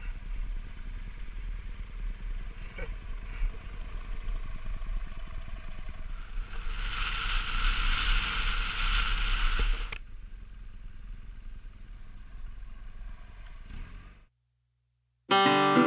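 Motorcycle engine running with steady rushing wind noise while riding, getting louder with a hissing rush in the middle before easing off. The sound cuts out briefly, and acoustic guitar music starts near the end.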